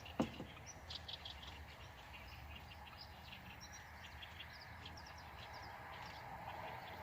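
Small birds chirping repeatedly in short, high calls, with one sharp knock about a quarter second in as the loudest sound.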